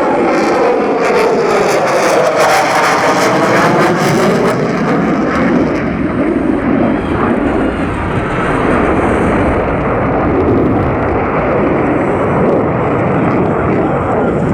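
F-22 Raptor's twin F119 jet engines running loud as the fighter passes, with a swooshing sweep down and back up in tone about two to three seconds in, then a steady jet rumble.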